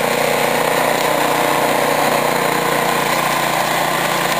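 Cub Cadet snowblower's engine running steadily as it clears snow.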